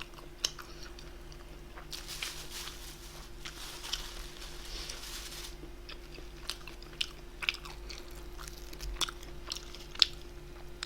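A person chewing food close to the microphone: scattered small mouth clicks and crunches, with a denser stretch of crunchy chewing from about two to five seconds in, over a faint steady hum.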